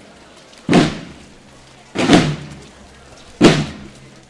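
Procession drums beating a slow, steady march: three heavy strokes about a second and a half apart, each dying away before the next.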